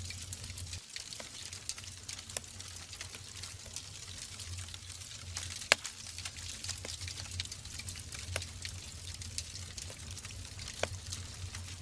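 Wood fire burning in a fireplace: a steady hiss of flames with irregular crackles and pops from the burning logs, one sharp pop about halfway through the loudest.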